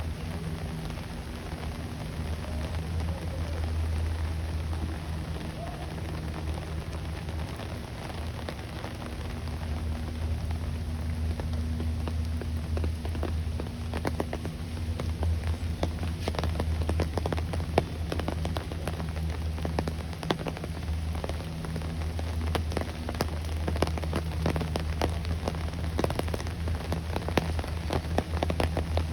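Rain pattering on a surface, with a dense scatter of small drop ticks that thickens from about halfway, over a steady low hum.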